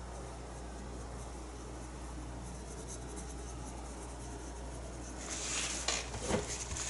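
Faint steady electrical hum, then from about five seconds in a paintbrush scrubbing acrylic paint onto the painting in short, scratchy strokes while shading.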